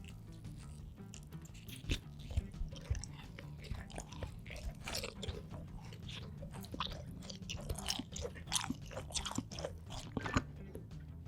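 Close-miked crunching and chewing of crisp food: many sharp bites and crunches in quick, irregular succession, with soft background music underneath.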